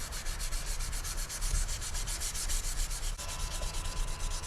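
600-grit sandpaper rubbed by hand on a Damascus steel knife blade in quick back-and-forth strokes, about eight to ten a second. This is the sanding step between ferric chloride etches. A faint steady hum joins about three seconds in.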